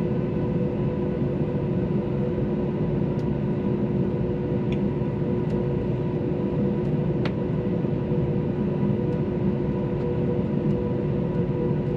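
Steady cabin noise of an Airbus A321-231's jet engines heard from a window seat: an even rush with a constant hum, broken only by a few faint ticks.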